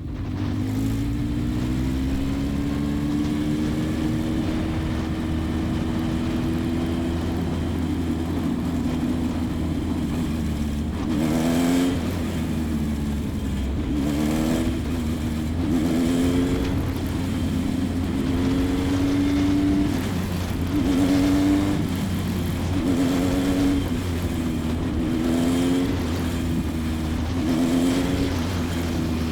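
Single-seater formula race car's engine heard onboard at low speed, running fairly steadily with repeated short rises in pitch as the throttle is opened, first about eleven seconds in and then every few seconds.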